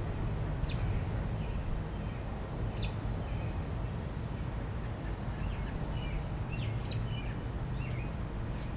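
Songbirds chirping: several short high chirps, more of them in the second half, over a steady low background rumble.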